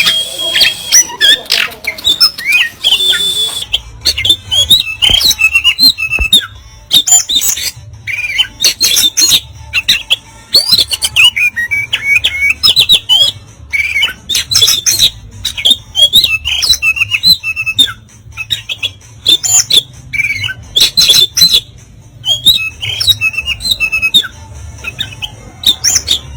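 Oriental magpie-robin (kacer) singing loudly in rapid runs of short, harsh, rasping notes mixed with quick whistles, broken by brief pauses.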